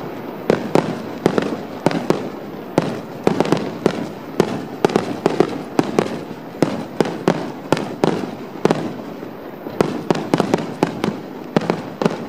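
Aerial firework shells bursting in a rapid finale barrage: a dense run of sharp booms, several a second, with a continuous rumble between them.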